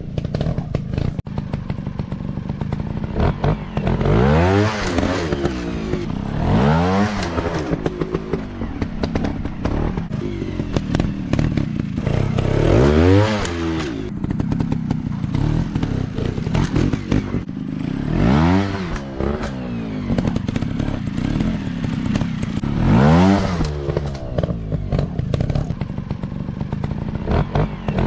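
Dirt bike engine running and revving up and dropping back again and again, about six times, with clattering and thuds in between.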